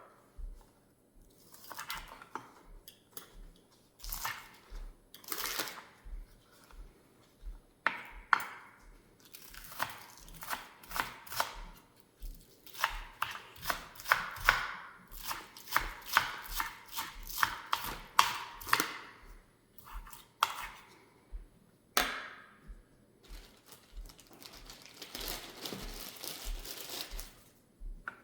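Kitchen food-prep handling: a long, irregular run of quick, sharp crackles, taps and rustles, busiest in the middle.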